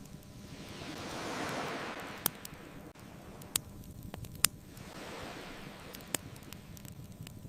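Ocean waves washing in, one swelling and falling away over the first three seconds and a softer one a few seconds later, with a handful of sharp pops from a crackling wood fire, the loudest about halfway through.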